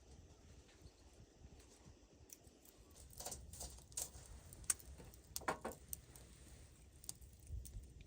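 A scatter of light clicks and knocks through the middle few seconds, with one short scrape about halfway through, over a faint low background.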